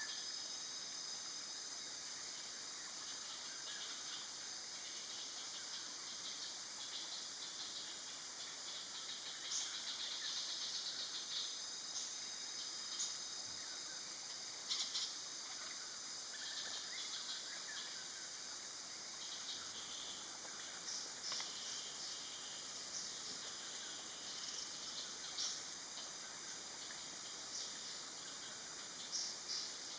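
Forest ambience: a steady high-pitched insect drone, with short high chirps now and then.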